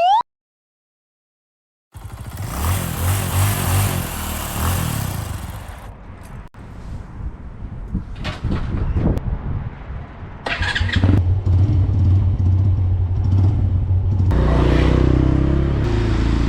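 250cc gasoline motorcycle engine running and revving in several short cuts, starting about two seconds in, with the pitch rising and falling and a steadier running note in the last couple of seconds.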